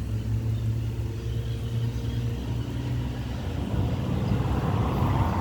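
A motor running steadily with a low rumbling hum, which grows rougher and a little louder over the last couple of seconds.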